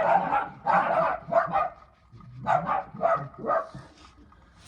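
A dog barking six times in two runs of three, with a pause of about a second between the runs.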